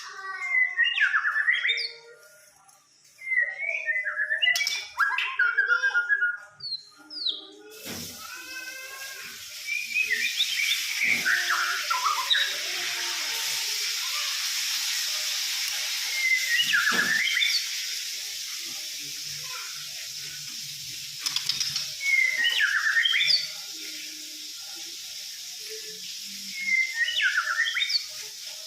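White-rumped shama (murai batu) singing in short, loud whistled phrases of quick rising and falling notes, repeated every few seconds. A steady hiss comes in about eight seconds in and runs under the song.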